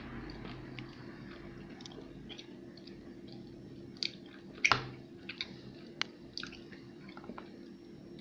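Mouth-close chewing of Milka milk chocolate with whole almonds, with scattered sharp clicks; the loudest comes a little under five seconds in.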